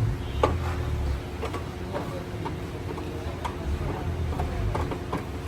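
Workshop noise: scattered light clicks and taps over a low rumble, with one sharper knock about half a second in.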